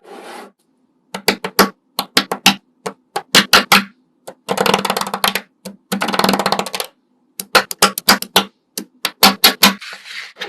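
Quick clusters of sharp clicks and taps, like small hard objects being handled. There are two longer scratchy rustles of about a second each in the middle, over a faint steady hum.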